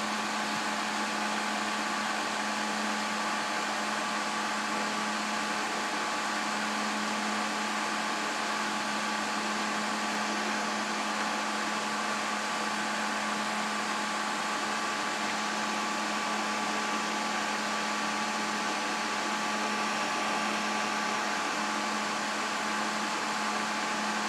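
Desktop computer's cooling fans running steadily: an even whir with a low hum and faint higher whining tones.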